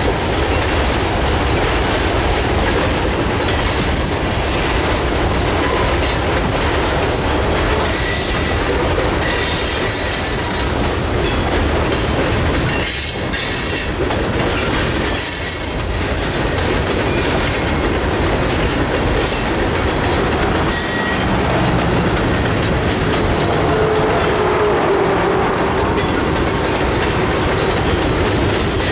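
Freight cars (covered hoppers and tank cars) rolling past close by: a steady rumble of wheels on the rails, with brief high-pitched wheel squeals on and off.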